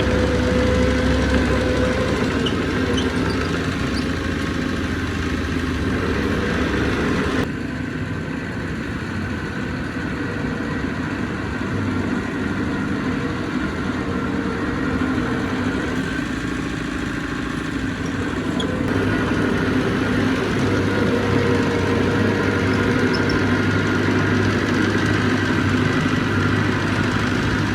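Heavy-equipment diesel engine running steadily. The sound changes abruptly twice, about a quarter of the way in and again about two-thirds of the way in.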